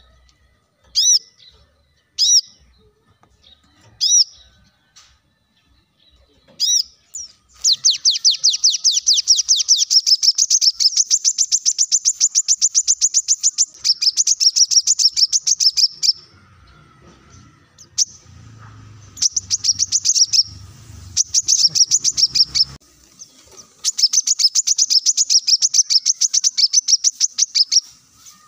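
Brown-throated sunbird (kolibri kelapa) singing. A few sharp single chirps a second or two apart give way to long, rapid trills of high repeated notes, in three runs separated by short pauses.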